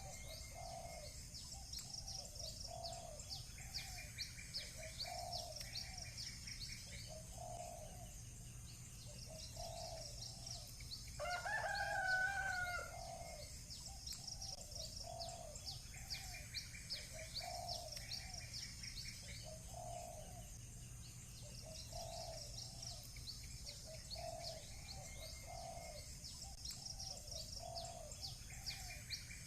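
Village bird ambience: small birds chirp steadily, with a low call repeating about every second and a half and short bursts of rapid trilling. A rooster crows once about eleven seconds in, the loudest sound, lasting about two seconds.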